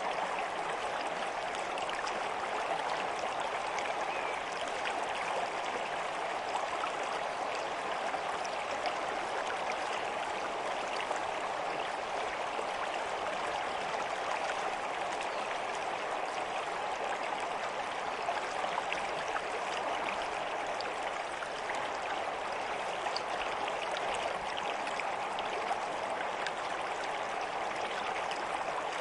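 A small stream running steadily, a constant babble of water with many fine splashes and trickles.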